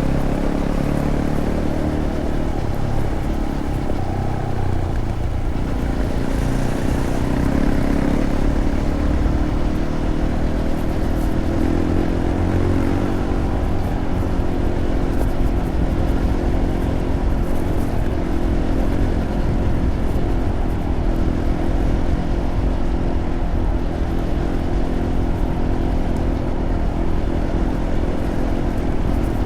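Fantic Caballero 500's single-cylinder engine running under way through its stock Arrow exhaust, its pitch rising and falling a few times with the throttle, over a steady rush of road and wind noise.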